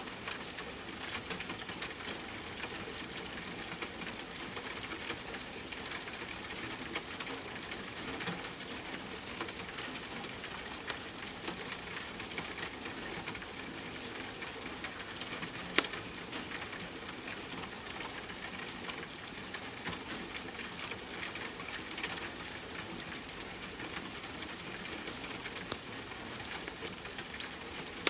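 Steady rain hiss mixed with the crackle of a wood fire: scattered small snaps throughout, with one sharper pop about halfway through.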